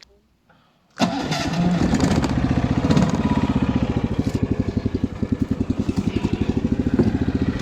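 Tofalar motorized snow tow's engine starting about a second in, catching at once and running on steadily with an even rapid beat.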